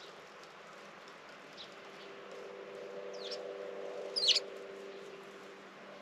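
Wild birds chirping outdoors: a faint note, then a short call about three seconds in and a louder, sharper call just past four seconds. Under the calls a low mechanical hum swells and fades in the middle.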